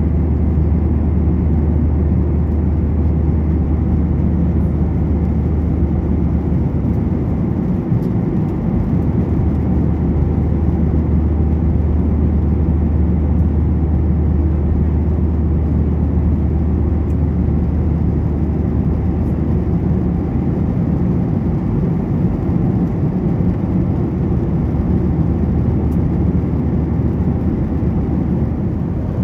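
Steady cabin noise inside a Boeing 737-900ER in flight: a constant low engine drone under an even rush of airflow.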